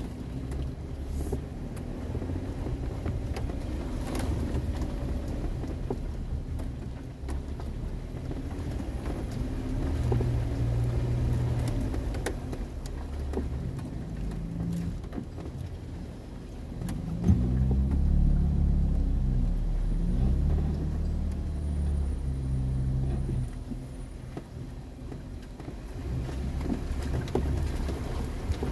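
A four-wheel-drive vehicle's engine running low and slow as it crawls a muddy trail, heard from inside the cab, with occasional knocks and bumps. About two-thirds of the way through, the engine revs rise and fall for a few seconds.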